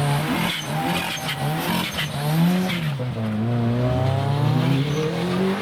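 Car engine revving as it pulls away: the pitch rises and drops about two and a half seconds in, then climbs steadily as the car accelerates.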